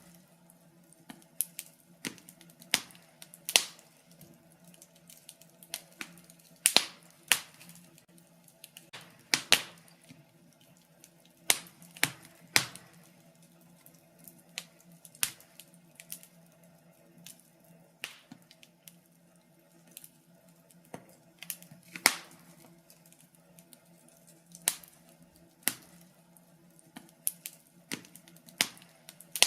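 Wood fire in a fireplace crackling, with irregular sharp pops and snaps of varying loudness over a faint steady low hum.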